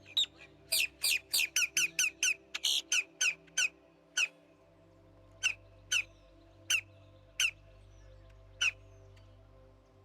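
A bird giving a rapid series of short, sharp, high calls, about eighteen in all, fast at first and then slowing and spacing out until they stop near the end. Soft background music with steady held notes plays underneath.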